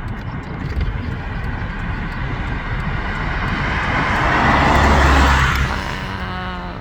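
A vehicle passing close by: tyre and engine noise rising to a loud peak about five seconds in, then fading, over a steady low rumble of traffic.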